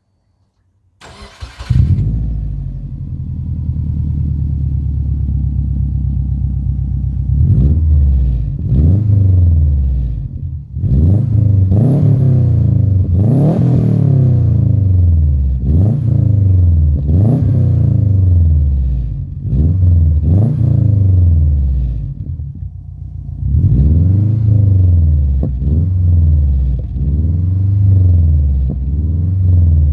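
Subaru Forester SG9's turbocharged 2.5-litre flat-four engine, fitted with a custom exhaust, starting up about a second in and settling to a steady idle. It is then revved again and again in quick blips, each rising and falling, with a short lull near idle before the revving resumes.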